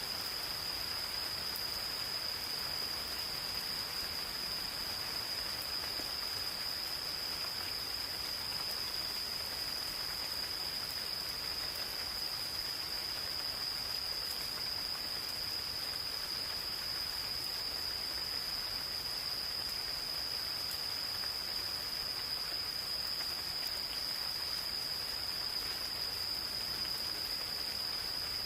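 Gentle, steady rain falling on forest foliage, with a chorus of insects holding one continuous high-pitched trill throughout.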